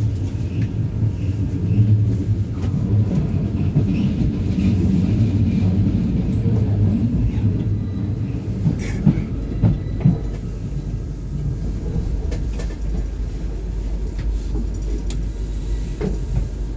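Low, steady rumble inside a commuter train carriage, with a few short knocks about nine to ten seconds in.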